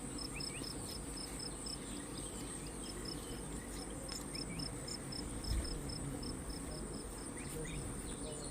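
Forest insects calling: a steady high-pitched shrill drone, with a chirping insect pulsing at about four chirps a second.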